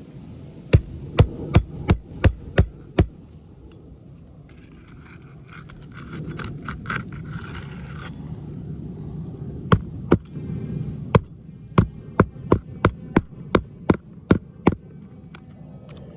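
Hammer strikes driving nails on a shingle roof: a run of about six blows, then after a pause with some rustling, a longer run of a dozen or so, two to three blows a second.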